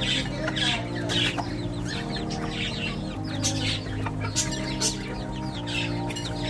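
Young chickens peeping and cheeping: many short, high, falling chirps one after another. Soft background music with held chords plays underneath.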